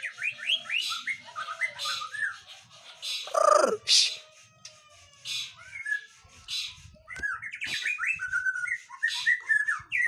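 Songbird calling steadily: quick runs of short chirps mixed with harsh, rasping calls, with one louder falling call a little after three seconds in.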